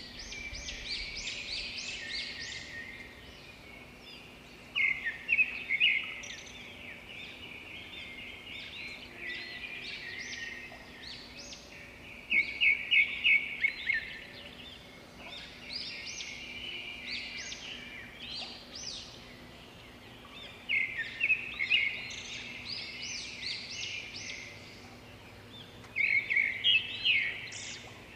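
Birds chirping and twittering, with louder bursts of rapid chirps about every seven or eight seconds.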